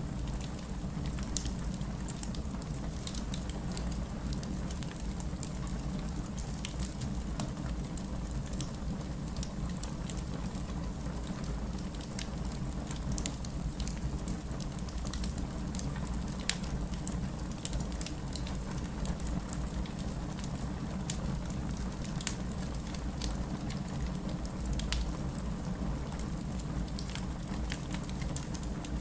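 Wood fire crackling: a continuous scatter of small, sharp snaps and pops over a steady low rumble of the burning logs.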